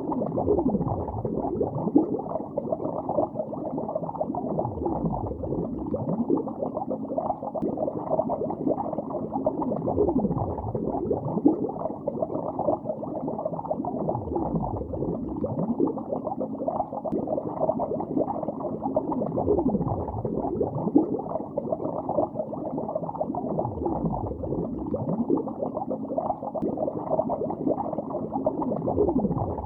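Bubbles streaming and gurgling underwater, muffled and low-pitched, with a deep falling swoosh about every four to five seconds.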